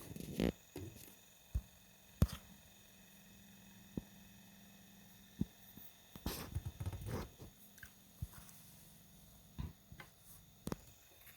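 Plastic toys being handled and set down on a hard surface: scattered sharp clicks and knocks with a few short rattly clusters over a faint steady hum.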